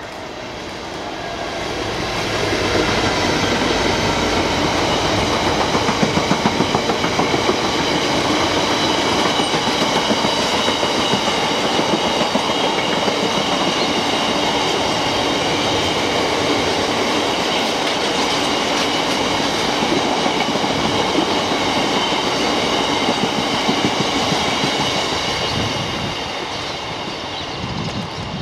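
A Class 66 diesel-electric freight locomotive approaches and passes, its engine note falling as it goes by. A long train of bogie tank wagons then rolls past, wheels clattering over the rail joints with several steady high ringing tones above the rumble. The sound eases near the end as the tail moves away.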